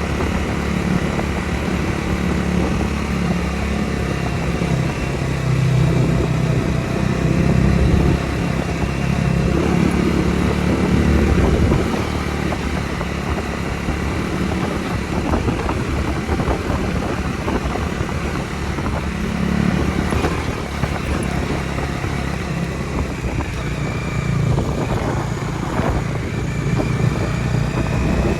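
Bajaj Dominar 250's single-cylinder engine running on the move, under a steady rush of wind noise. The engine swells and eases a few times as the throttle changes.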